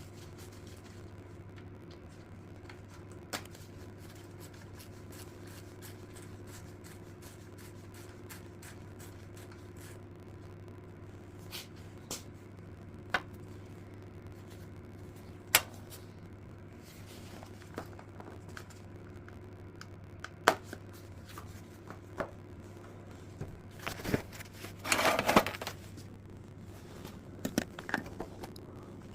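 Hand tools and parts being handled during an engine teardown: scattered sharp clicks and knocks, and a short scraping flurry near the end, over a steady low hum.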